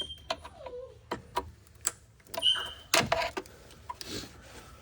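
Scattered sharp clicks and taps of plastic connectors and clips being worked loose from a truck's upper intake manifold, with a cluster of louder clicks about three seconds in and a few short squeaks.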